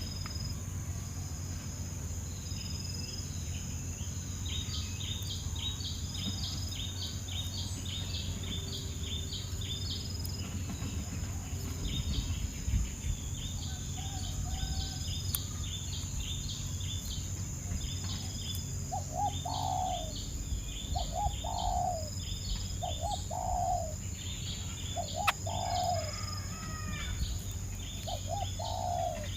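Birds calling: runs of rapid, high chirps go on throughout. About two-thirds of the way in, a series of short, lower notes comes in roughly once a second. A steady, high-pitched insect drone runs underneath.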